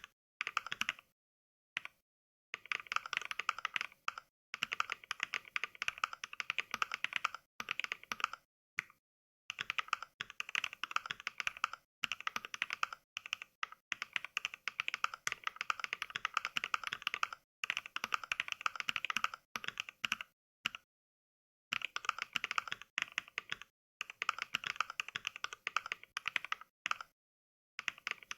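Fast touch-typing heard through a simulated mechanical keyboard: Mechvibes' NK Cream switch samples, a click per keystroke, not the real keyboard's sound. Rapid runs of clicks a few seconds long, broken by short dead-silent pauses.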